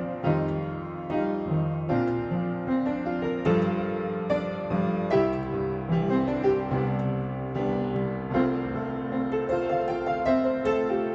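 Background music: gentle solo piano playing a slow melody over chords, notes struck about every half second.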